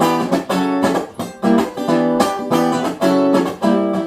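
Acoustic guitar strumming chords in a steady rhythm, with no singing: an instrumental break between lines of a song.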